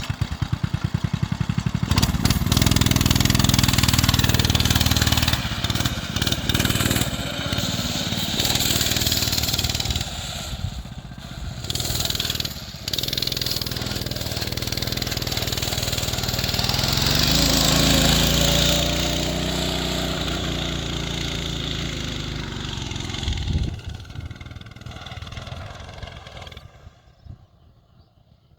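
Small single-cylinder four-stroke mini bike engine with a centrifugal clutch coming up to speed and running hard under load up a steep hill, its pitch rising about two-thirds of the way through. The engine sound falls away a few seconds before the end.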